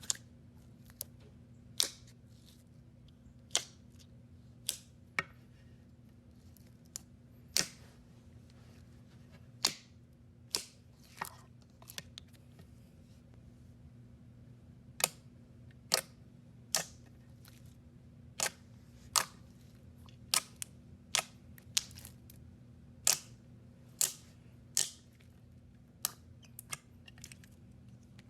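Slime being worked by hand, giving sharp, short clicky pops at irregular intervals, about one a second, over a faint steady low hum.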